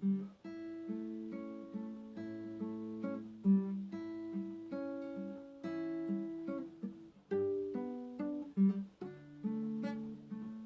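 Acoustic guitar playing a slow, gentle piece of plucked notes and chords, each note ringing on.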